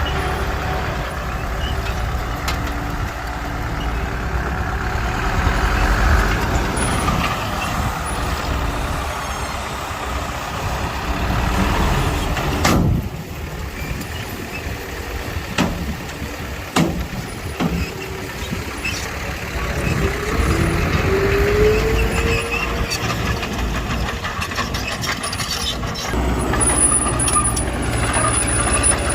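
Heavy diesel earthmoving machinery running at work: a bulldozer and dump trucks with a steady low engine rumble. A few sharp knocks come about halfway through, and a rising whine follows a little later.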